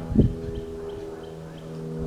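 An engine running steadily at a constant speed, with a single low thump about a quarter of a second in.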